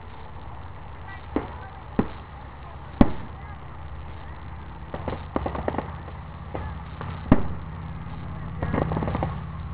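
Aerial fireworks shells bursting at a distance: a series of sharp bangs, the loudest about three seconds in and another strong one about seven seconds in, with quick runs of crackling around five and nine seconds, over a steady low rumble.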